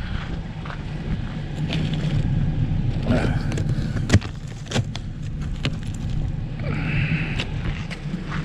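A car engine running steadily, with scattered sharp cracks and crunches over it, the sharpest about four seconds in.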